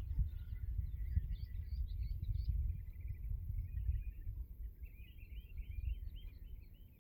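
Small birds chirping and singing in quick short phrases, over a low uneven rumble of wind on the microphone.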